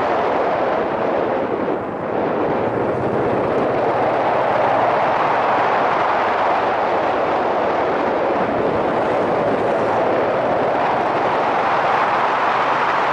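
Wind rushing over a helmet-mounted microphone while riding, with a Yamaha SRX400's single-cylinder four-stroke engine running underneath; the noise dips briefly about two seconds in.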